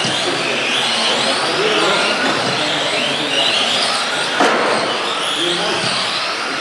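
A pack of radio-controlled euro trucks racing, their motors whining over one another and rising and falling in pitch with the throttle. A single sharp knock sounds about four and a half seconds in, like a truck hitting something.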